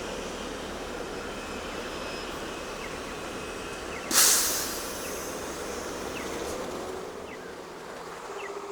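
Steady city street traffic noise with a sudden loud hiss about four seconds in that dies away over about half a second.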